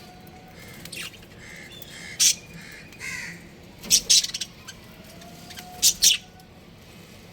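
Budgerigars chirping: sharp, high-pitched calls in three short bursts about two seconds apart, with softer calls between.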